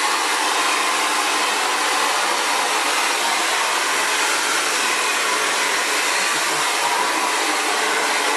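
Xtava Allure 2200-watt ionic ceramic hair dryer running steadily, a constant rush of blown air with its fan whir and no change in speed.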